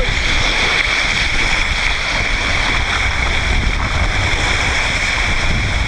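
Steady rushing of water with a constant hiss, at an even level throughout.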